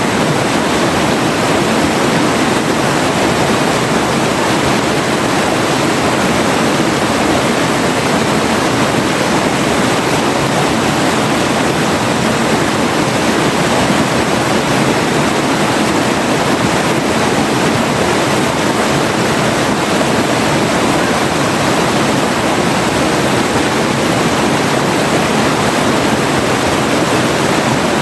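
River water rushing and splashing in a steady, loud, unbroken rush.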